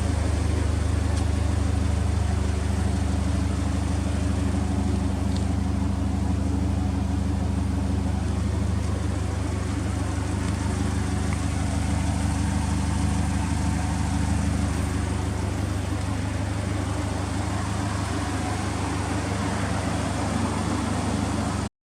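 Subaru Impreza WRX STI (GRB) turbocharged 2.0-litre flat-four engine idling steadily, with no revving; it cuts off abruptly near the end.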